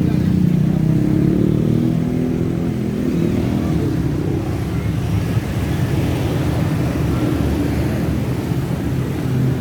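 Motor vehicle engines running as road traffic, a steady low rumble with a slight rise and fall in pitch in the first few seconds.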